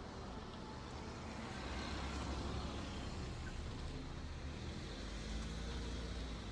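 Car driving on the road: a steady low engine and road rumble that swells slightly about two seconds in.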